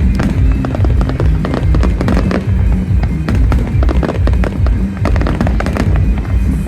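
Fireworks going off in rapid, crackling bursts over loud music with a heavy bass line, as in a display set to music.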